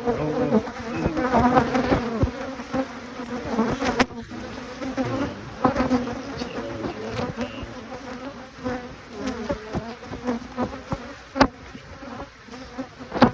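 Honey bees buzzing around an open hive, a steady hum that swells and fades, with a few sharp knocks.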